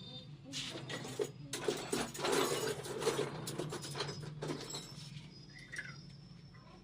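Irregular scraping, rustling and light knocks from about half a second in to about five seconds, over a steady low hum.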